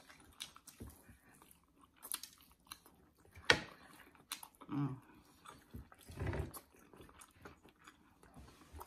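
People chewing and biting into fried chicken, with small wet smacks and scattered clicks and one sharp click about a third of the way in.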